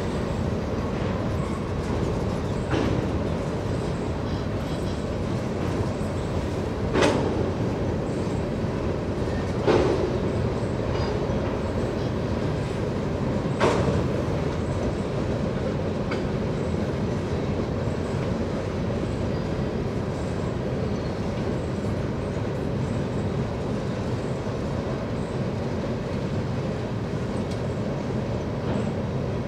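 Freight train rolling by with a steady, heavy rumble, and four sharp knocks from the wheels and rolling stock, the loudest about seven and ten seconds in.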